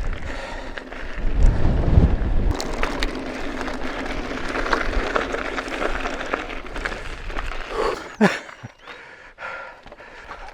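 Strong wind buffeting the camera microphone over the crackle of mountain bike tyres rolling on a rough track. The wind rumble is heaviest in the first couple of seconds. There is a short falling squeak about eight seconds in.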